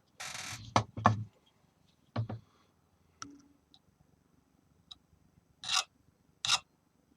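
Hand tools being handled on a workbench: a short clatter and a few knocks in the first second and a half, another knock, then two short rasping scrapes near the end, like strokes of a diamond file on metal.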